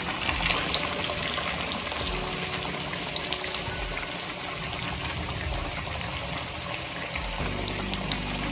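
Panko-breaded chicken cutlets deep-frying in hot oil: a steady sizzle with scattered pops and crackles, the cutlets freshly added to oil at medium heat.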